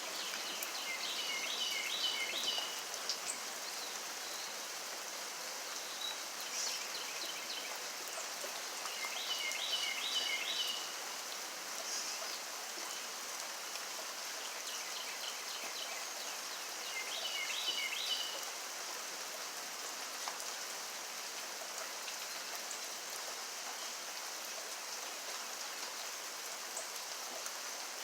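Steady rain falling. Three times, about eight seconds apart, a bird calls a short phrase of four or five quick high notes.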